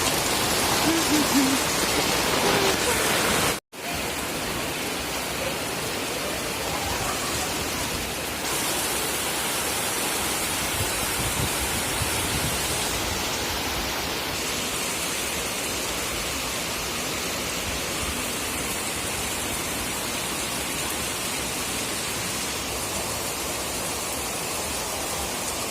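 Heavy rain falling steadily as an even hiss, broken by a momentary gap about four seconds in.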